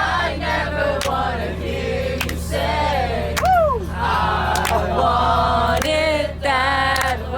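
A group of young people singing along loudly together, with sustained 'oh' sounds and one voice whooping and sliding down in pitch about halfway through. A steady low hum runs underneath.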